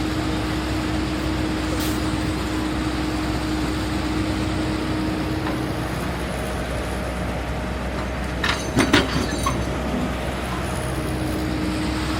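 Cat 320 GC hydraulic excavator running steadily with a constant tone over the engine noise, then a few sharp metallic clanks about eight and a half to nine and a half seconds in.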